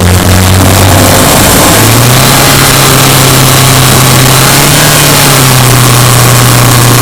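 Subaru Impreza Sport's flat-four engine running under way, loud and steady. Its pitch rises about two seconds in and eases down slightly a few seconds later.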